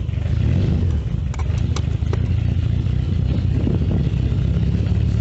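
A 1973 Triumph Spitfire 1500's four-cylinder engine running, rough-sounding, with a few sharp clicks about a second and a half in. The owner calls the car knackered and is taking it in to be fixed.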